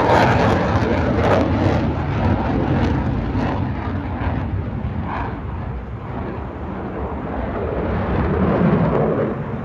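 Military aircraft flying past at an air show, a loud broad rush of engine noise with a low rumble underneath; it fades through the middle and swells again near the end.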